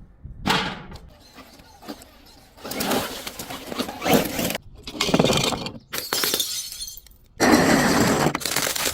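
Glass breaking and shattering: a sharp smash about half a second in, then several longer loud stretches of shattering glass, each starting and stopping abruptly.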